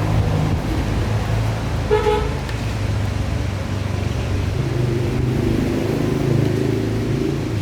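A brief vehicle horn toot about two seconds in, over a steady low hum of background noise.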